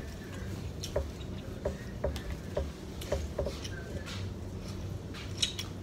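Close-up eating sounds: soft wet clicks and smacks of chewing seafood, coming irregularly a few times a second.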